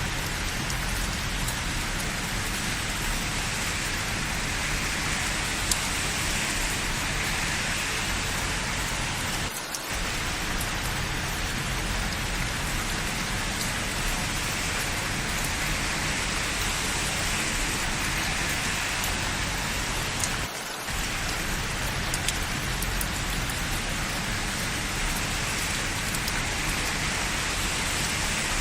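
Steady rain falling in an even hiss, with two brief dips in level about a third and two-thirds of the way through.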